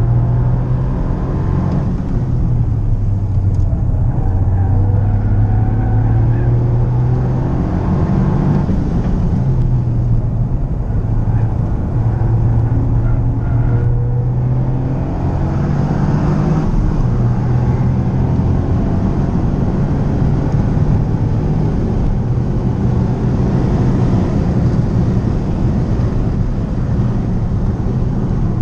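Toyota GR Yaris's turbocharged 1.6-litre three-cylinder engine, fitted with a Ragazzon exhaust, heard from inside the cabin under hard track driving: revs rising and falling repeatedly as it accelerates and comes off the throttle, with road noise underneath.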